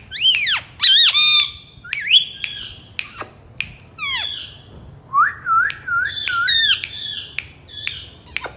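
A pet parakeet squawking and screeching, a quick run of sharp calls that sweep up and down in pitch, with a wavering, warbling call about five seconds in.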